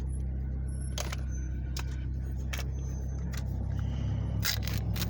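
Hard plastic action-figure pieces clicking and knocking as they are handled, a handful of sharp separate clicks, over a steady low hum.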